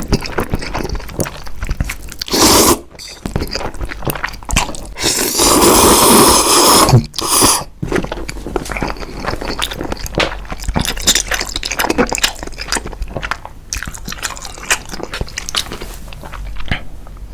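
Close-miked eating sounds: crunchy bites and chewing, with many small clicks. There is a louder rush of noise lasting about two seconds a third of the way in.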